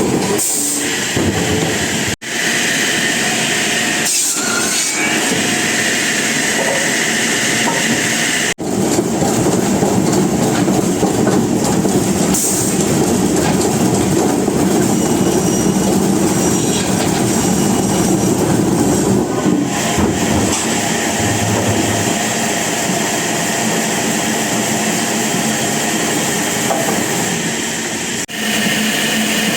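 Sawmill machinery running loud and steady as a saw cuts through timber. The sound drops out abruptly for an instant about two seconds in, again about eight seconds in, and near the end.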